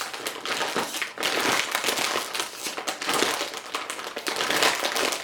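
Crinkling and rustling of a potato chip bag as hands pull at it, trying and failing to tear it open.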